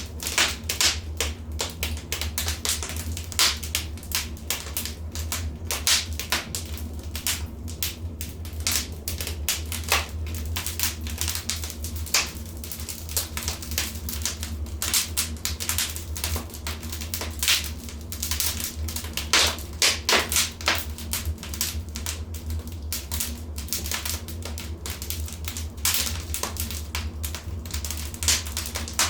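Wood fire crackling in a fireplace: irregular sharp pops and snaps, several a second and a few louder ones, over a steady low hum.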